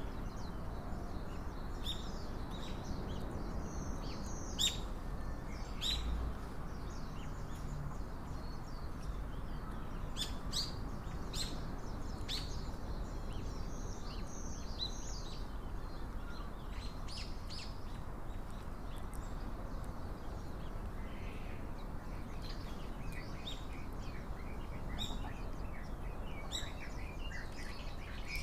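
Small wild birds giving short, high chirps and call notes, scattered irregularly throughout, over a steady low background hum of outdoor noise.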